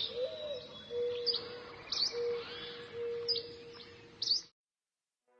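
Birds chirping with short repeated calls, cutting off suddenly about four and a half seconds in.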